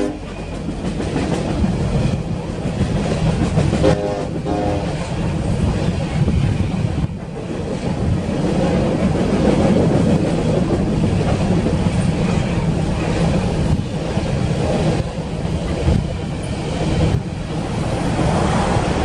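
Empty coal cars of a freight train rolling past, a steady rumble and clatter of steel wheels on the rails. About four seconds in, two short train horn notes sound from the distant locomotive.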